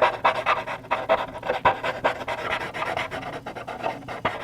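Blending stump rubbing HB charcoal into charcoal paper in quick back-and-forth strokes, a rapid, uneven scratchy rubbing.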